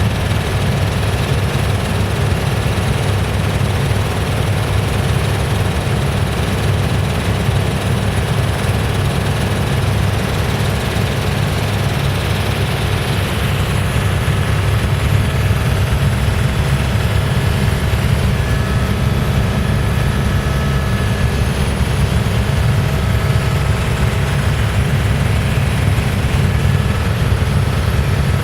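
Helicopter's rotor and turbine engine running steadily in flight, a loud constant rumble heard from inside the cabin.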